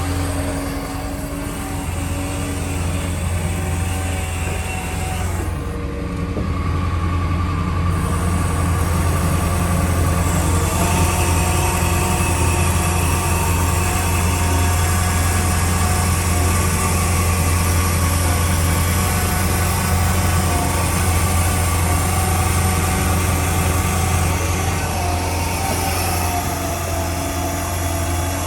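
Ford 7.3L Powerstroke V8 turbo diesel running steadily, a low drone with a steady whine over it. About ten seconds in, the whine shifts in pitch and a brighter hiss comes in.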